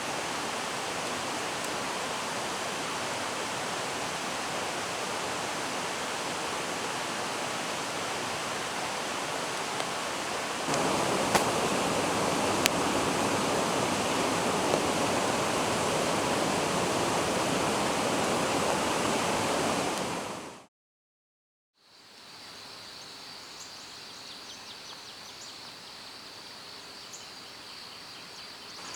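Steady rushing of a forest stream. It gets louder about eleven seconds in, fades out to a second of silence around twenty seconds, and comes back quieter with a thin, steady high tone over it.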